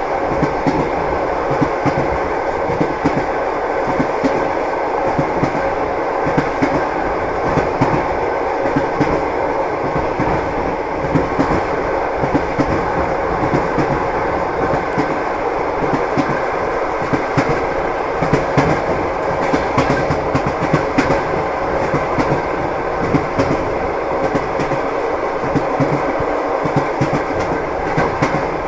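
Train wheels clacking over the rail joints, with a steady rumble of the moving train and frequent irregular knocks.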